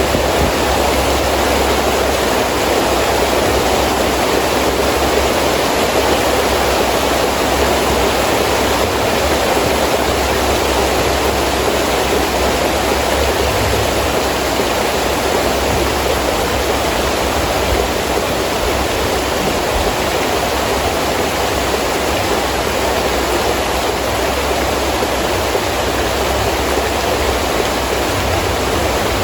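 Heavy rain falling steadily in a windy storm: an even, unbroken hiss with a low rumble of wind underneath.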